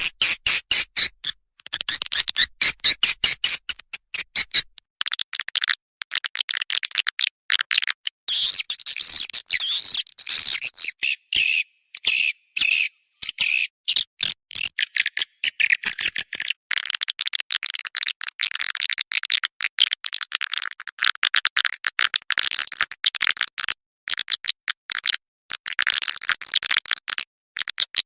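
Swiftlet lure call track: recorded edible-nest swiftlet twittering, a fast, dense stream of high chirps with brief breaks, of the kind played to attract swiftlets to a nesting house.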